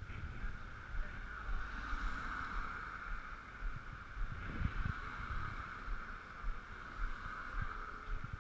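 Ekoway ML5000 electric scooter riding on a wet road: a steady hiss of motor and tyre noise, with low wind buffeting on the microphone.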